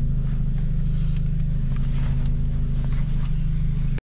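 Car engine running at a steady, unchanging drone, heard from inside the cabin. The sound cuts off abruptly near the end.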